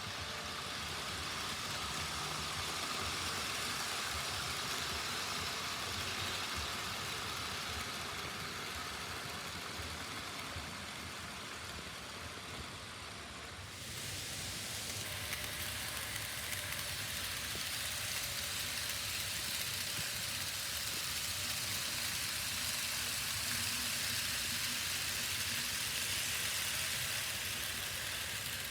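N scale model trains running on the layout: a steady whirr of small electric motors and the light hiss and clatter of wheels on track. The sound changes abruptly about halfway through.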